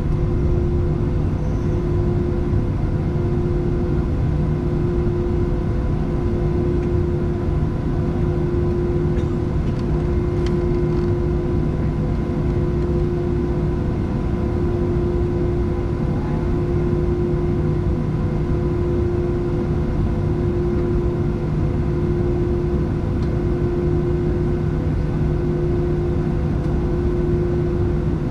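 Cabin noise inside a Boeing 737-700 in flight: a steady low rumble from the CFM56-7B engines and airflow, with a constant hum running through it.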